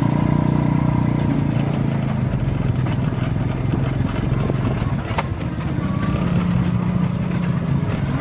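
Small motorcycle engine of a motorized pedicab (bentor) running steadily under way, its hum easing a little in the middle and steadying again near the end.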